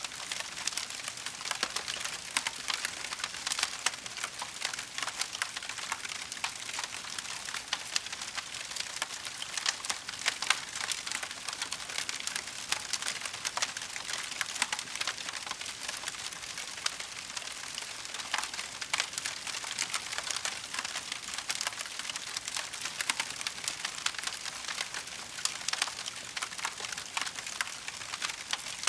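Wood fire crackling in a fireplace: a steady, dense run of small pops and snaps over a soft hiss, with no single loud event.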